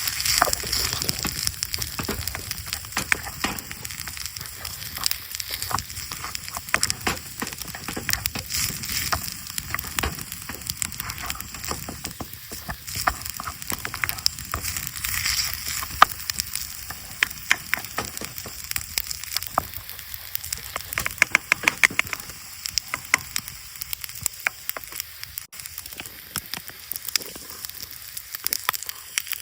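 Wood campfire crackling, with a steady sizzling hiss and many irregular sharp pops, which come thicker a little after the middle.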